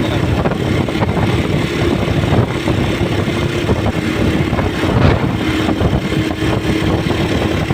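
Motorcycle engine running steadily while riding, with a brief louder swell about five seconds in.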